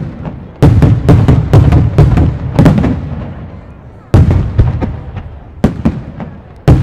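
Aerial firework display: rapid volleys of loud bangs, several a second, each volley fading into a rumbling echo. A first volley starts just after the start and dies away over about three seconds. A second volley comes about four seconds in, then a single bang, then another volley near the end.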